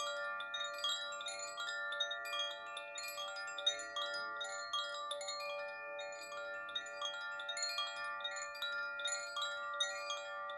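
Wind chimes ringing continuously, many bright metallic notes struck several times a second and overlapping as they ring on.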